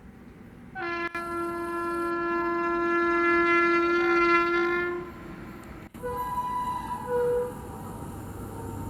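An approaching Indian Railways express locomotive sounds its horn: one long steady blast of about four seconds, then after a break fainter horn tones with a short louder toot. A low rumble of the oncoming train builds near the end.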